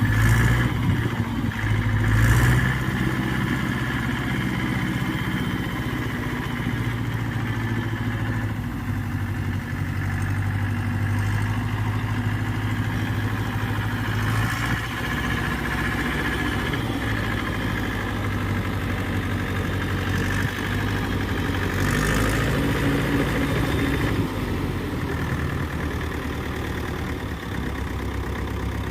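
Mahindra tractor's diesel engine running steadily at a low idle-like speed, briefly louder near the start and again about three-quarters of the way through.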